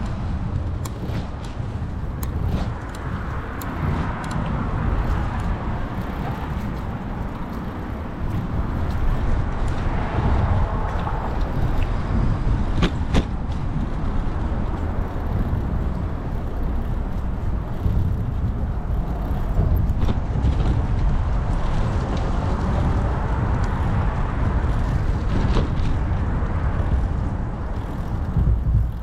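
Wind rumbling on the microphone of a moving bicycle, with road traffic swelling past about three times.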